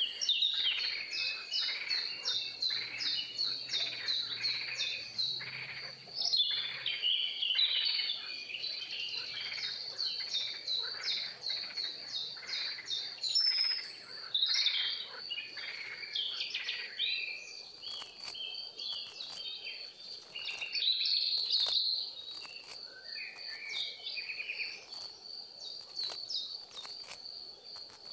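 Wild birds singing and calling, many quick chirping notes in dense runs that thin out in the second half, over a steady high-pitched whine.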